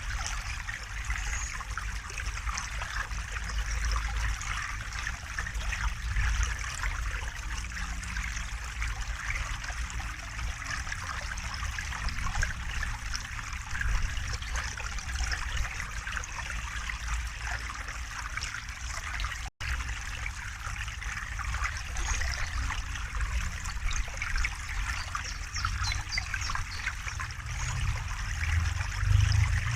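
A river flowing and trickling steadily, with a low rumble underneath. The sound cuts out for an instant about two-thirds of the way through.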